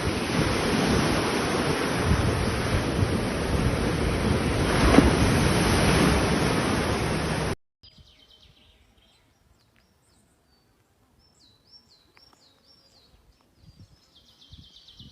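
Loud, steady noise of sea surf and wind, which cuts off abruptly about halfway. Then faint birdsong follows: a small bird repeating short, high, gliding whistled notes.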